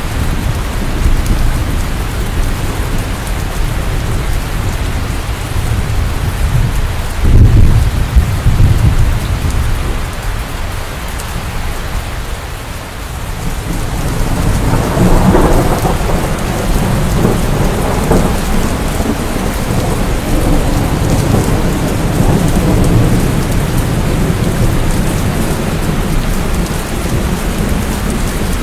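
Steady rain during a thunderstorm. A loud low thunder rumble comes about seven seconds in and dies away, and another long rolling rumble builds about halfway through and carries on.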